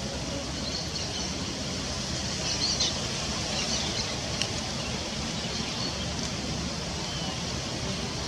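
Steady rushing outdoor background noise with a few short, high bird chirps between about one and four seconds in.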